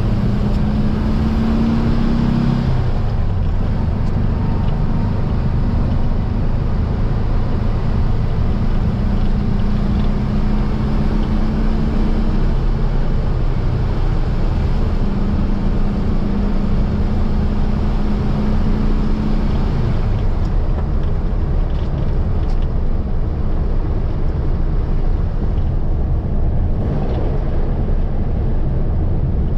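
Baja Bug's 1700cc air-cooled flat-four engine running on the road, its note holding steady for stretches and falling off three times, then carrying on without a clear tone for the last third.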